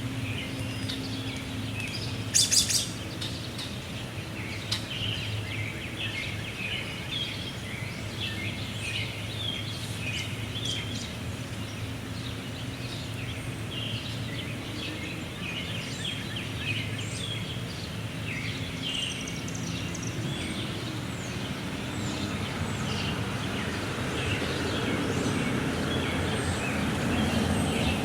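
Small birds chirping and singing, many short calls over a steady low hum. A loud, brief burst of sharp notes comes about two and a half seconds in, and a rush of noise swells near the end.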